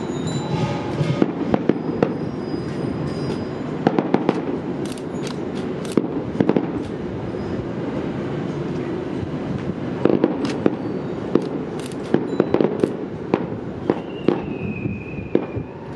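Fireworks going off: many sharp cracks and bangs, often several in quick succession, over a continuous low rumble of background noise. A thin high whistle comes in near the end.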